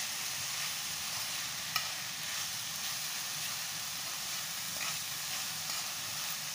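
Shredded cabbage, carrot and chicken samosa filling sizzling in a pan as it is stirred and tossed, with one sharp clink of the utensil against the pan a little under two seconds in.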